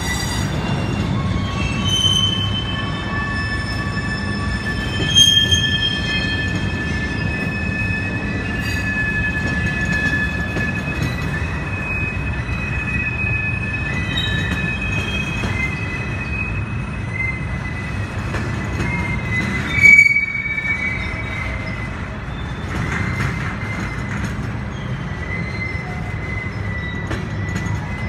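Freight cars of two BNSF trains, grain hoppers and a manifest, rolling past on curved track: a steady rumble with long, high-pitched wheel squeals that keep sounding. Two louder, sharper squeals stand out, about five seconds in and again about twenty seconds in.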